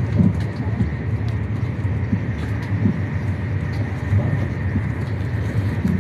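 High-speed passenger train running at speed, heard from inside the carriage: a steady low rumble with a faint steady high tone and a few light ticks.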